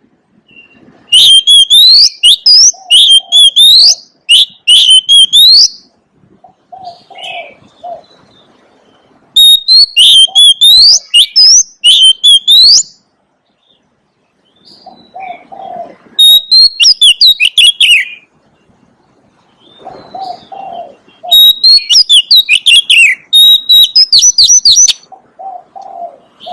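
Oriental magpie-robin singing: four loud bursts of rapid, sweeping whistled notes, separated by short pauses. Fainter low cooing calls sound between the bursts.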